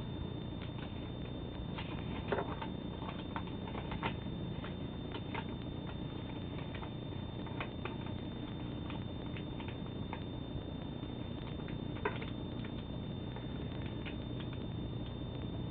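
Paper being handled and creased while folding an origami flapping bird: scattered soft crackles and clicks over a steady background hum, with a few sharper crinkles about two, four and twelve seconds in.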